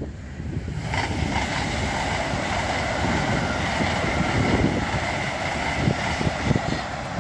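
LNER Azuma high-speed passenger train passing at speed, a steady rush of wheels on rail and air with a faint high whine, building about a second in. Wind buffets the microphone with low thumps.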